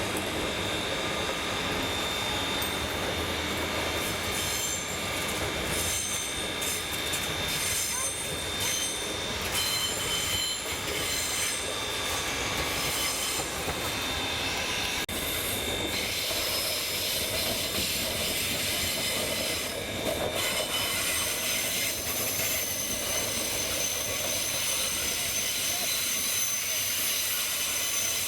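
Steam train running along the track: a steady rolling rumble with high, thin wheel squeals on the rails.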